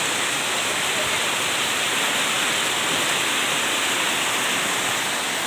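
Heavy rain pouring down, a dense steady hiss with no letup.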